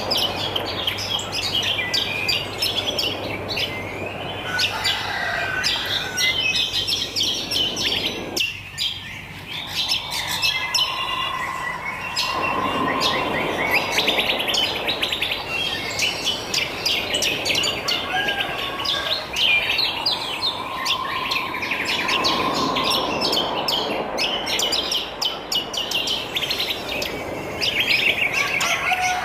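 A chorus of wild birds chirping and twittering densely and without a break, with a lower whistled note that swells and fades every few seconds.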